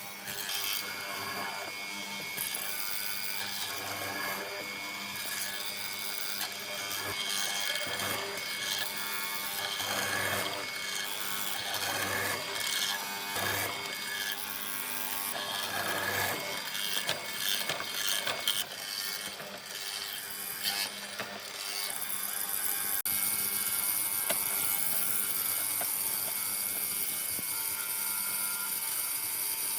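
Woodworking tools working wood, a shifting mix of machine noise and knocks. A steady high-pitched hiss sets in about two-thirds of the way through.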